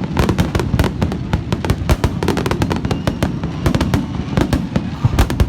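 A fireworks display in a rapid barrage: many sharp bangs and crackles, several a second without let-up, over a low rumbling of booms.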